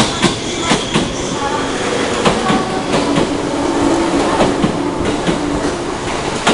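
JR 415 series electric multiple unit pulling out and passing close by: wheels clacking over the rail joints again and again over a steady rolling rumble, with a low hum in the middle.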